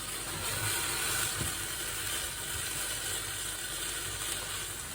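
Steady hiss and sizzle of hot water and steam from an aluminium Neapolitan flip coffee pot just turned upside down while hot.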